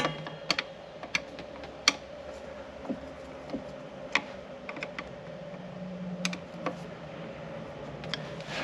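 Irregular small clicks and taps of hands working a replacement tractor switch and its surrounding parts into place, over a faint steady hum.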